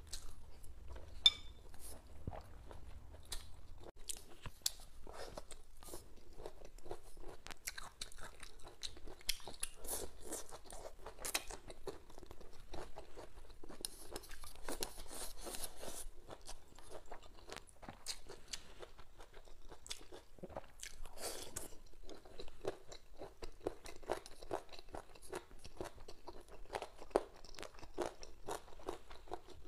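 Close-miked chewing and crunching of food, with wet mouth sounds and irregular crisp clicks. There is one sharp click about a second in.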